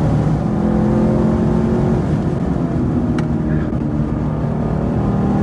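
Car engine running under way, a steady pitched drone whose pitch shifts down a little about two seconds in, with a single sharp click about three seconds in.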